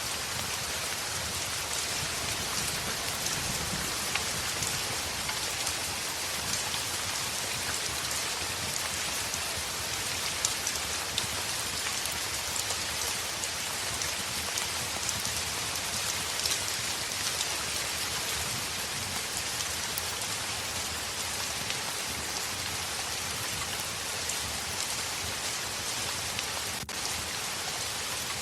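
Steady heavy rain on a window: an even hiss with scattered sharp ticks of drops and a low rumble underneath.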